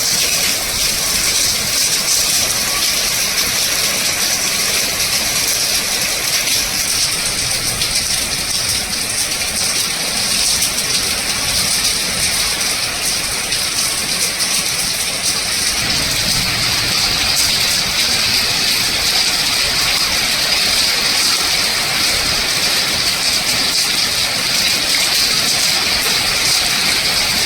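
Heavy rain and running water: a steady, even hiss that keeps up without a break.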